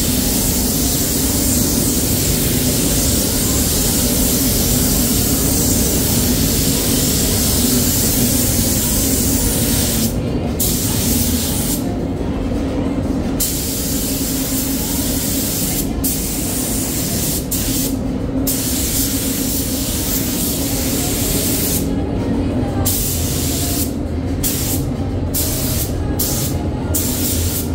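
Compressed-air paint spray gun hissing, held on for about ten seconds and then sprayed in short bursts with brief pauses, over a steady low hum.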